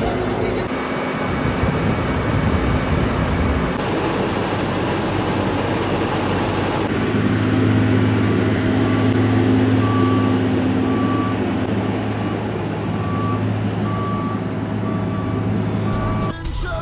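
Diesel engine of a Storti Dobermann self-propelled feed mixer running, louder from about a third of the way in. Its reversing alarm sounds in the middle stretch, a short beep repeated roughly every three-quarters of a second.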